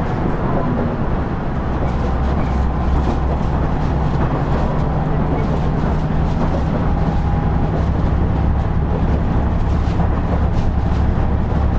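Steady drone of a KiHa 110-series (KiHa 112) diesel railcar heard from inside the car: the diesel engine humming at an even pitch over wheel-on-rail running noise, with faint scattered clicks.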